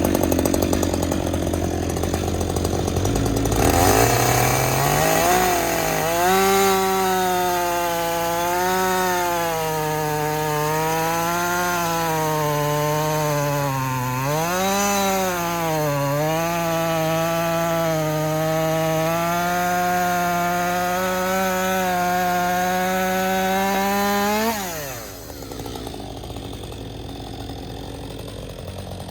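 Chainsaw cutting through a wooden log: it revs up about three seconds in, and its engine pitch wavers up and down under the load of the cut for about twenty seconds. Near the end the pitch falls away and the sound drops much quieter.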